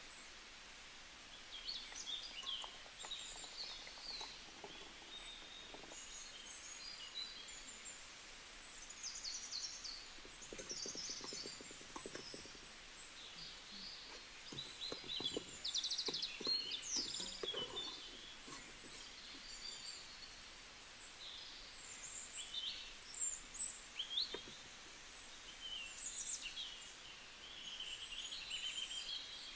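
Birds chirping, with many short high calls scattered throughout. A low clatter runs through the middle stretch.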